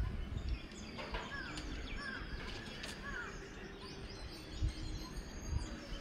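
Birds calling outdoors: a short arched call repeats about three times, with fainter high chirps from other birds throughout.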